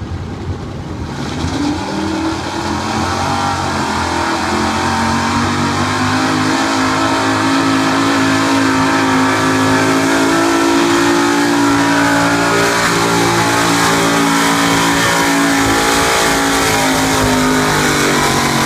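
Pulling truck's engine at full throttle during a pull, building over the first couple of seconds and then holding high with the pitch creeping slowly upward. Near the end the driver backs off and the pitch drops.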